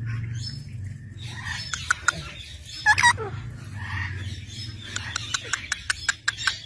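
Parrots calling with short squawks and gliding chirps, loudest about three seconds in, followed by a quick run of sharp clicks over a low background hum.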